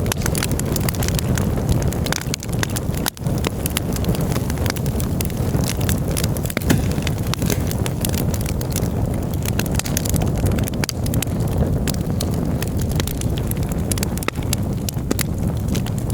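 Campfire burning, the wood crackling and popping many times a second over a steady low rumble.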